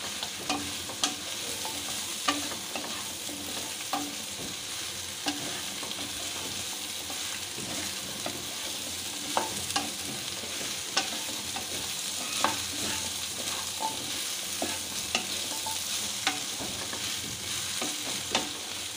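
Chopped taro stolons (kochur loti) sizzling in hot oil in a pan while a spatula stirs and tosses them. Irregular clicks and scrapes of the spatula against the pan stand out over the steady frying hiss.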